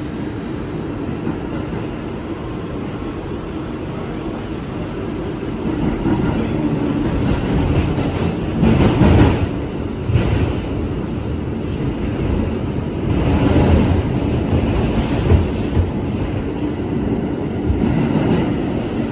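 R211 subway car running between stations, heard from inside the car: a steady rumble of wheels on rail with clicks over the rail joints, growing louder about six seconds in as the train picks up speed.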